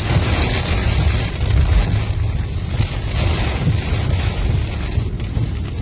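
Heavy thunderstorm rain and gusty wind, the gusts buffeting the microphone with a rumble under a steady hiss of rain.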